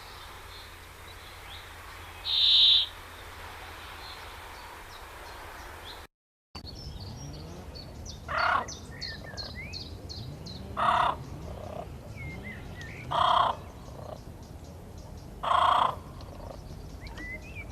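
Bird calls over background chirping. One loud short call comes about two and a half seconds in. After a cut, a bird gives a loud call about every two and a half seconds, five times, while smaller birds chirp.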